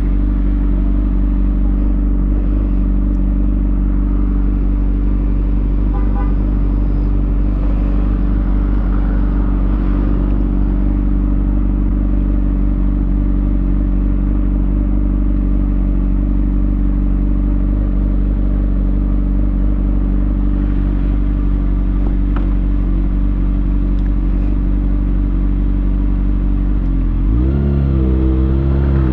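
2020 Kawasaki Ninja ZX6R's inline-four engine, breathing through a Lextek SP7C carbon exhaust with decat headers, idling with a steady note. Near the end the note dips and then climbs as the revs rise.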